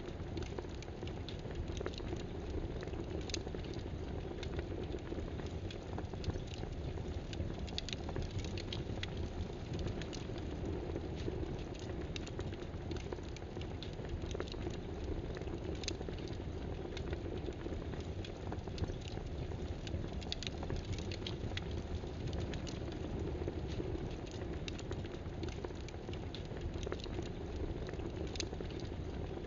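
Scattered light clicks of computer keyboard typing, irregular and uneven, over a steady rushing background noise.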